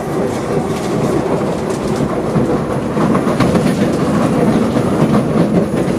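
SMRT C751B metro train running at speed, heard from inside the carriage: a steady rumble of wheels on rail with a few faint clicks.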